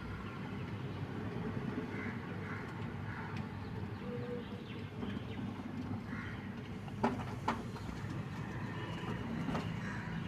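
A pet parrot makes a few faint, short chirps over a low steady background hum, with two sharp clicks about seven seconds in.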